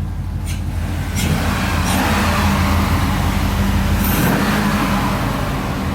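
Corvette LS V8 idling steadily through an aftermarket exhaust with the resonator deleted, its sound swelling slightly in the middle.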